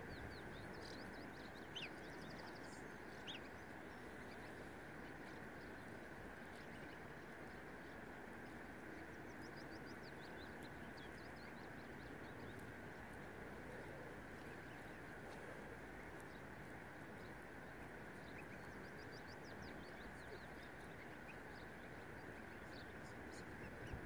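Faint lakeside birdsong over a steady background hiss: a quick series of short high notes comes three times, about ten seconds apart.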